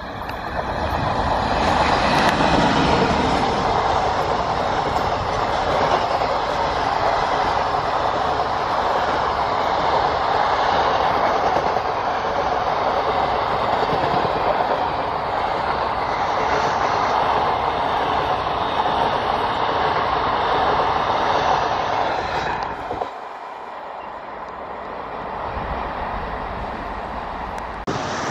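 Passenger train hauled by a WAP-4 electric locomotive passing close at speed: a steady rush and clatter of coach wheels on the rails that builds over the first second and holds for about twenty seconds. Near the end it drops suddenly to a quieter, more distant train running.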